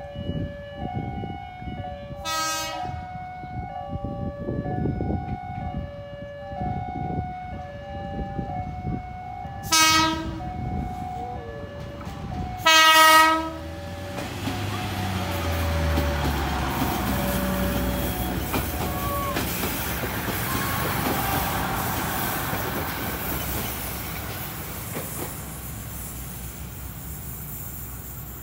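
A train horn sounds three times, the third blast longest and loudest, over a repeating two-tone electronic warning signal typical of a railway level crossing. Then the train passes: the locomotive's engine and the rumble and clatter of the wagons, slowly fading near the end.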